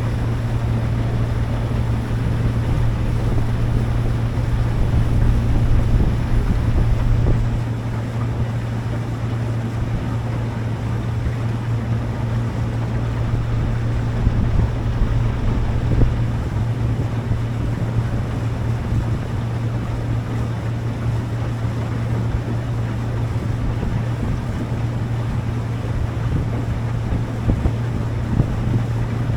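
Motorboat engine running at a steady cruise, a constant low drone with the hull and water rushing along, while wind buffets the microphone, most strongly in the first few seconds.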